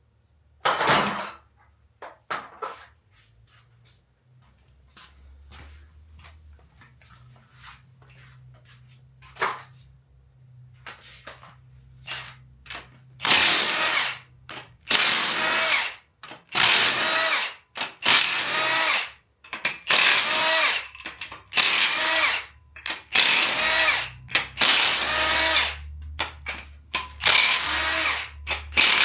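A power wrench on the 7/8-inch main bearing cap bolts of a GM 8.1L (496) V8, driven in about a dozen short, loud bursts in the second half. Before that, light metal clicks and knocks as tools are handled.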